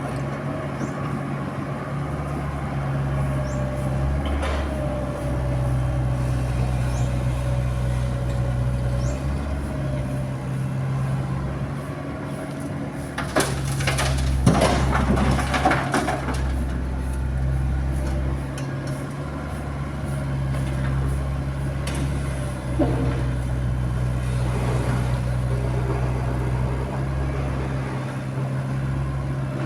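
Diesel engines of a Komatsu PC75UU mini excavator and an Isuzu dump truck running steadily while the excavator loads demolition rubble. A loud clattering crash comes about halfway through as a bucketful of broken concrete drops into the steel truck bed, and a shorter knock follows a few seconds later.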